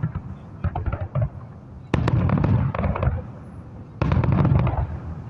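Aerial fireworks bursting overhead. There is faint crackling at first, then two sudden loud bursts about two seconds apart, each followed by about a second of dense crackling.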